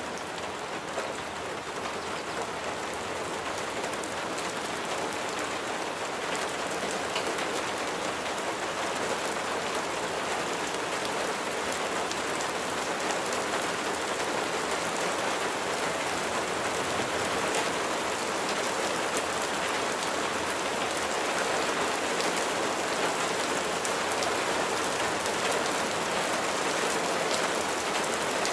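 Steady rain falling on a surface, a dense patter of many small drop impacts, slowly growing a little louder.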